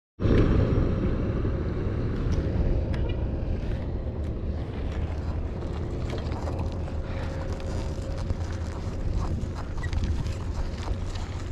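Riding a bicycle, recorded first-person: wind rumbling on the microphone and tyres rolling, with scattered clicks and rattles from the bike.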